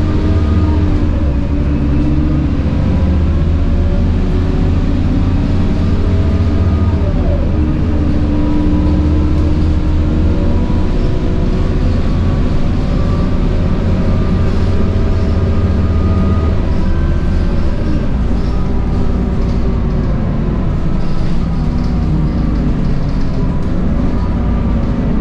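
Scania K230UB bus heard on board, its 9.3-litre Scania DC9 diesel and ZF Ecomat 6HP504C automatic gearbox under way, with a deep engine rumble and a high-pitched gearbox whine whose pitch rises and falls as the bus speeds up and slows.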